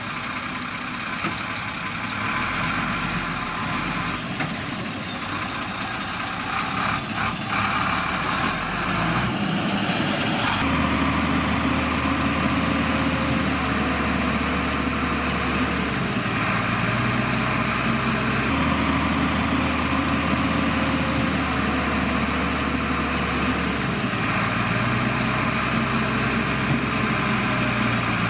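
Heavy earthmoving machinery's diesel engine running steadily, its low hum shifting in blocks; the sound changes abruptly about ten seconds in.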